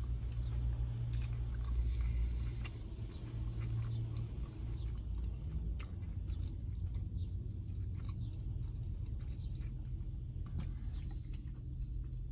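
Chewing a mouthful of crispy chicken sandwich: wet smacks and small clicks, busier in the first few seconds, over a steady low hum inside a vehicle cabin.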